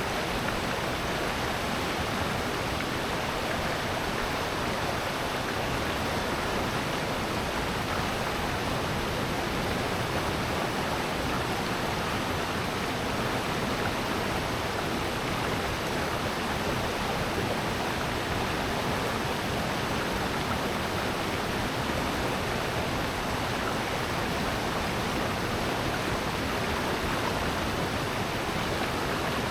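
Water rushing steadily down a valley stream and waterfall, an even, unbroken wash of noise with no changes.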